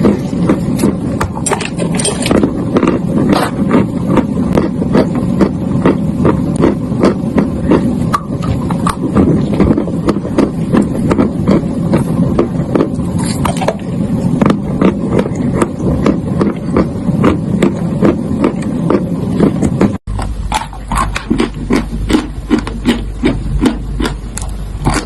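Close-miked crunching of chalk being bitten and chewed: a dense, rapid run of crisp crunches, several a second. About three-quarters of the way through it breaks off for an instant, and after that a low hum runs underneath.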